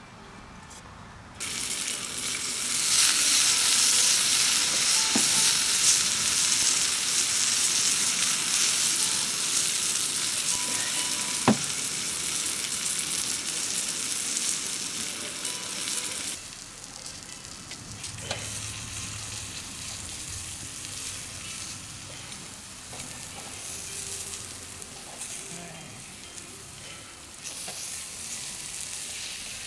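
A steady sizzling hiss that starts about a second in, is strongest over the first half, then carries on more quietly. One sharp click stands out about eleven seconds in.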